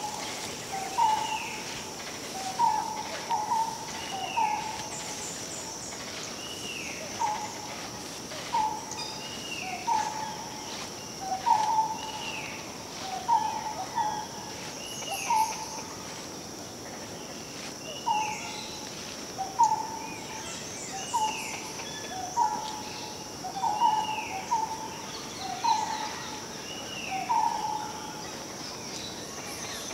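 Two birds calling over and over. One gives short, low, hoot-like notes in pairs, a lower note then a higher one, about every second and a half. The other gives a higher, arched whistle that slurs down, about every two seconds. Under them runs a steady high insect drone.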